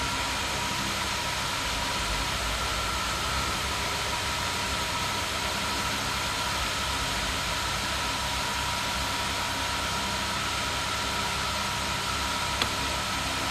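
Steady machinery hum of a heat pump factory production line, with a faint steady whine above it. One small click comes near the end.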